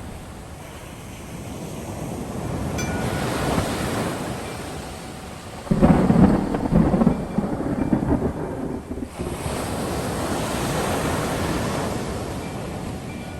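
A thunderclap about six seconds in, a sudden crack that rolls on as rumbling for about three seconds, over a steady wash of breaking waves that swells and fades.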